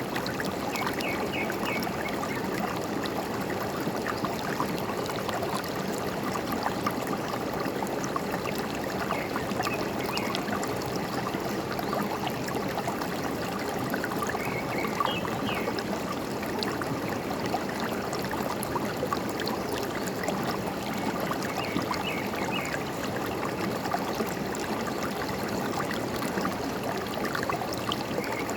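A forest stream running steadily, with small birds chirping now and then in short bursts of high notes, about every five to seven seconds.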